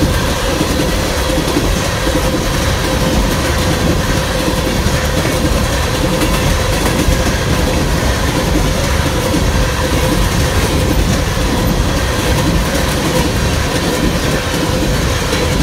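BNSF freight train cars rolling steadily past close by, their wheels clacking over the rails, with a steady ringing tone running underneath.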